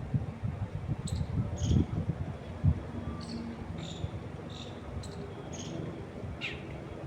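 Small birds chirping in short, high calls, mostly in pairs, repeating every second or two, over wind gusting against the microphone, whose low buffeting is loudest in the first three seconds and then eases off.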